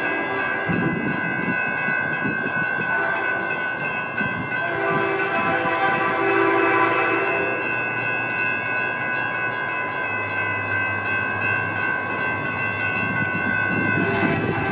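Train passing with its horn sounding, loudest about five to seven seconds in, over a steady high-pitched squeal.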